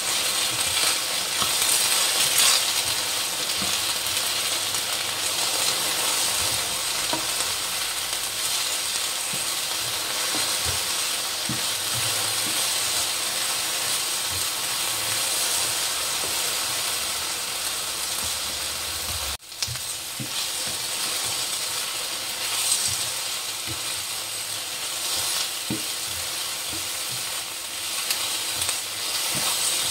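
Potato strips sizzling in hot oil in a nonstick frying pan, with a spatula scraping and turning them now and then. The sound breaks off for an instant about two-thirds of the way through.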